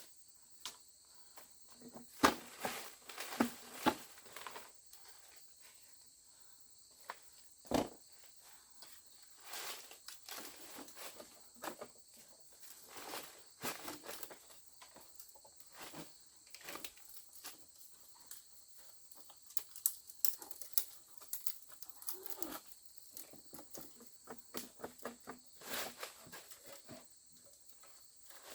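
Irregular knocks, taps and rustles, as of materials being handled, over a steady high insect chorus.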